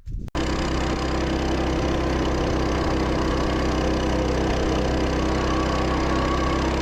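Coleman mini bike's small single-cylinder engine running at a steady speed, starting abruptly a moment in.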